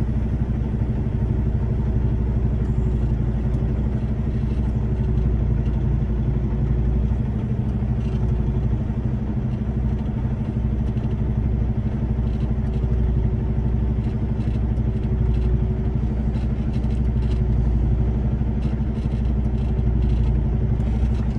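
Semi-truck diesel engine running steadily at low revs while the rig backs slowly into a loading dock, a constant low drone. Light clattering ticks come in over the second half.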